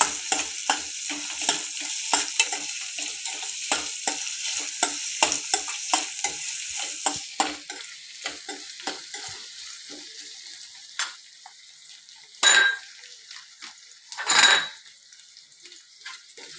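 Sliced onion, garlic, ginger and green chilli frying in oil in a kadai, sizzling while a metal spatula stirs and clicks against the pan many times. The sizzle fades about halfway through, and two louder noises come near the end.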